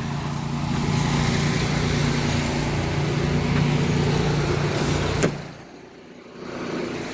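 A vehicle engine idling steadily with a low hum, which stops with a sharp click about five seconds in, leaving a much quieter hum.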